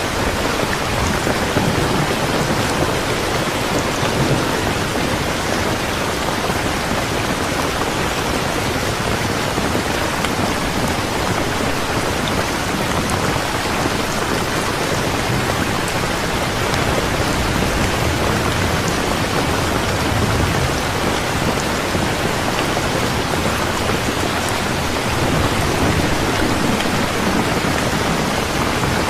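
Steady rain falling evenly, with a low rumble underneath.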